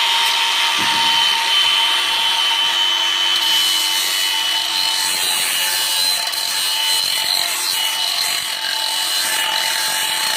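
Electric power sander running steadily, sanding down rough, splintery edges on a wooden board: a steady motor whine over the rasp of abrasive on wood. It cuts off right at the end.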